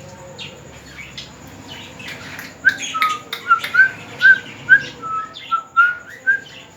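Pet parrot making a run of about ten short, clipped whistled chirps, roughly two to three a second, starting a few seconds in and stopping shortly before the end.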